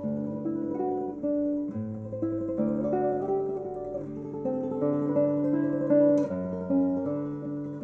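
Martinez MC-58 nylon-string classical guitar, with a solid spruce or cedar top and rosewood back and sides, played fingerstyle in a flowing passage of quickly repeated notes over a moving bass. A single sharp click comes about six seconds in.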